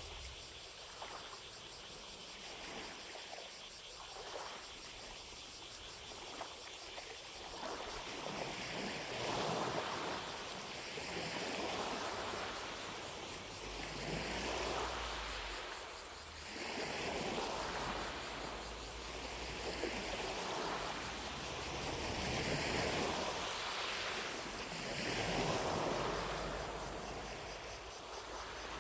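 Small lake waves lapping at the shore, each wash swelling and fading every two to three seconds, stronger from about eight seconds in. A steady, high, pulsing drone of distant cicadas runs underneath.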